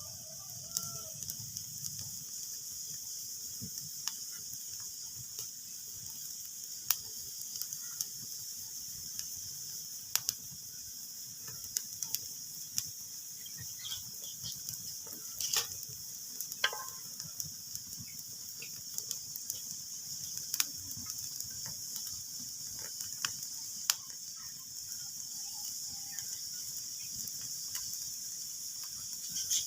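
Wood fire in a fireplace crackling: a steady hiss with irregular sharp pops and snaps scattered throughout.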